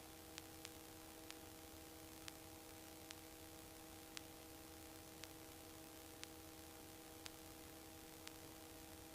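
Near silence: faint electronic hiss with a steady low hum and thin clicks about once a second, the idle noise of a headset intercom line with nobody talking.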